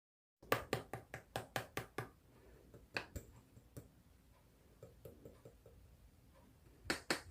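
Slime being handled, making sharp clicks and pops: a quick run of them at about four a second, then scattered softer ones and a loud close pair near the end.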